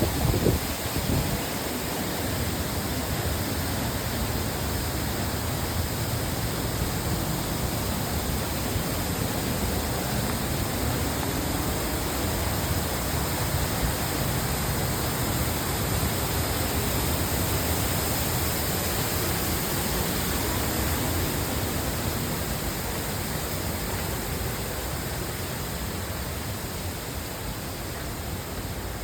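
Waterfall rushing: a steady, even roar of falling water that holds on without a break. There are a few brief low thumps in the first second.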